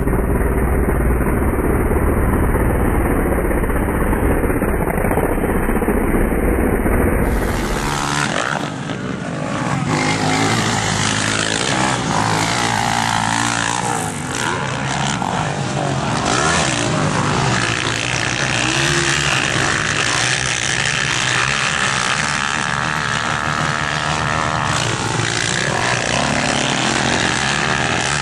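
Motocross bikes racing on the track, their engines revving up and down with throttle and gear changes. The sound is heavier and rumblier for the first eight seconds or so, then thinner and more even.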